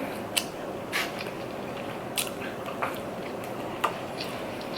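A person chewing food close to the microphone, with irregular wet mouth clicks and smacks a second or so apart.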